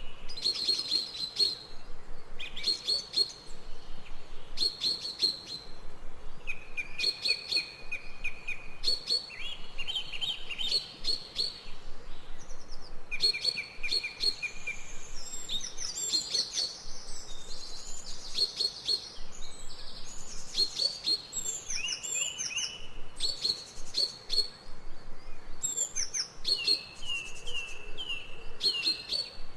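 Forest birds singing and calling, several overlapping voices: runs of short, rapidly repeated notes on one pitch every few seconds, mixed with higher chirps.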